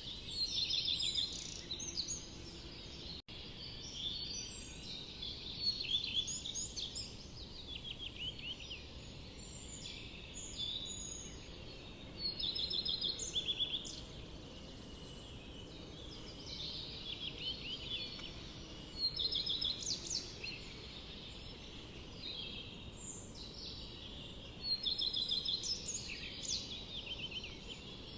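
Songbirds singing in a forest, several overlapping birds giving short trilled and chirped phrases in bursts every few seconds, over a steady low background hiss.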